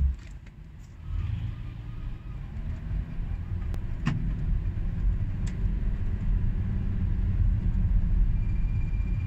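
Car running with a low rumble that steps up about a second in and slowly grows louder, with a couple of short sharp clicks or creaks about four and five and a half seconds in.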